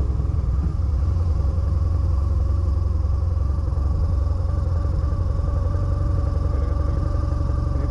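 Twin-cylinder adventure motorcycle running at a steady speed: a constant low rumble with a faint steady whine above it, unchanging throughout.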